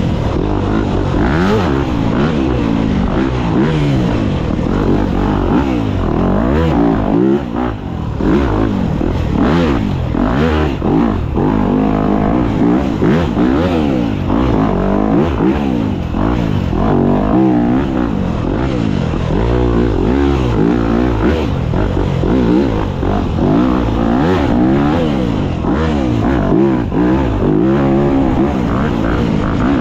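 Dirt bike engine revving up and down over and over as the throttle is worked, with a brief drop in revs about seven seconds in.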